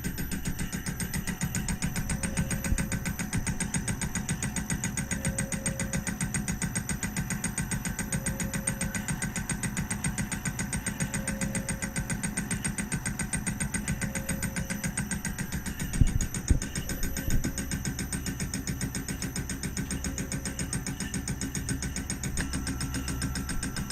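Homemade CNC milling machine at work: a steady running sound with a fast, even pulsing and a faint tone that comes back about every three seconds. A few sharp knocks sound about sixteen seconds in.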